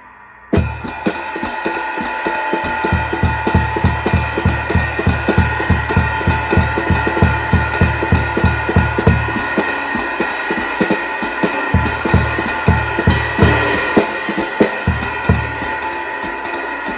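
Drum kit played with a 16-inch floor tom converted to a bass drum, a hole cut in its head. It starts with a crash about half a second in, then a fast run of kick strokes under ringing cymbals. The kicks pause briefly about ten seconds in and then resume.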